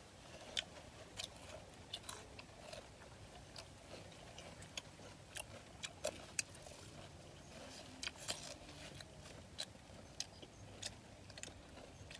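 Eating sounds close to the microphone: irregular wet smacks and clicks of chewing and lip-smacking, a dozen or more short ones spread unevenly.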